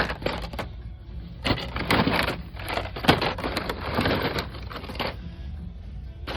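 Irregular clicking, clattering and rustling of boxed toy packages being handled and shuffled on store shelves, over a steady low hum.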